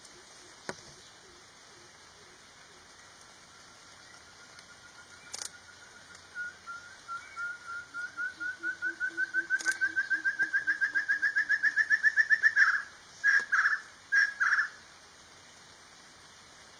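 A bird calling in a long series of whistled notes that rise slowly in pitch, coming faster and louder, then breaking off into three loud separate notes. Underneath, a low cooing series is heard at the start and again in the middle, and there are a few faint clicks.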